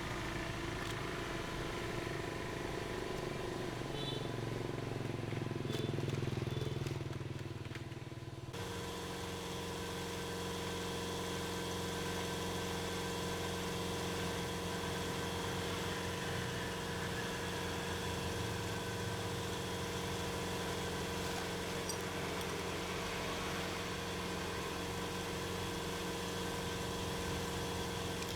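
Small motorcycle engine running steadily at idle, with an abrupt change in tone about a third of the way through.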